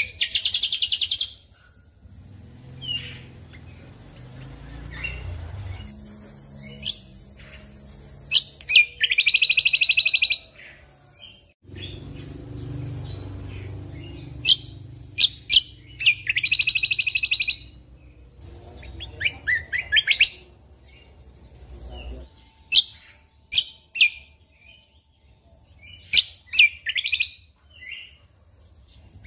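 Cucak kombo (kecial kombok) singing: loud fast trills of about one to two seconds, repeated several times, between sharp high single notes. A low rumble sits under the song for most of the first two thirds.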